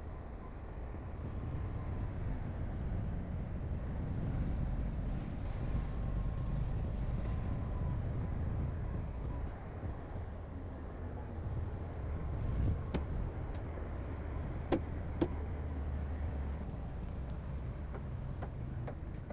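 Heavy earthmoving machine's diesel engine running steadily with a low rumble, with a few short sharp knocks about three quarters of the way through.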